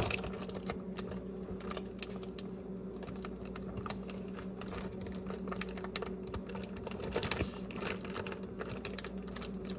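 Plastic zip bag crinkling and clicking irregularly as it is squeezed and pressed to seal it, overfull with raw chicken drumsticks. A steady low electrical hum runs underneath.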